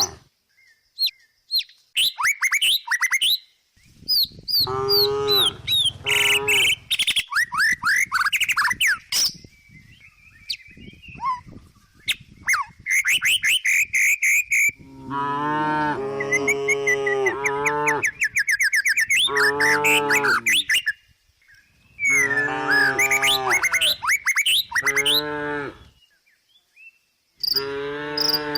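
A cow mooing several times, each a long, low call lasting one to two seconds, with birds chirping in the gaps between the moos.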